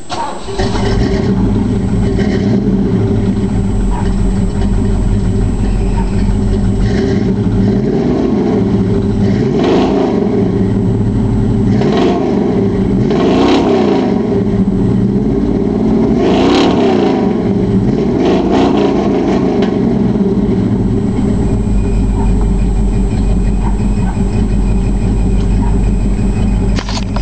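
1982 Chevrolet C-10's 350 V8, bored 40 over with a competition cam, breathing through long-tube headers and dual Flowmaster exhausts, running and revved with about six throttle blips in the middle, then settling back to a steady idle.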